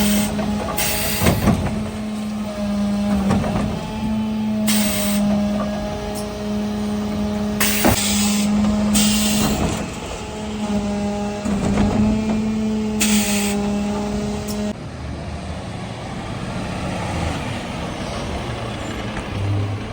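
Mercedes Econic refuse truck working: a steady mechanical whine, broken by short pauses, with several sharp air hisses and a few knocks. About 15 seconds in, the whine stops and a lower engine rumble is left.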